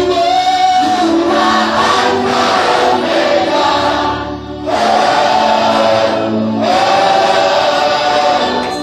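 Gospel worship song: a choir singing long held notes over instrumental backing, with a short break in the singing about halfway through.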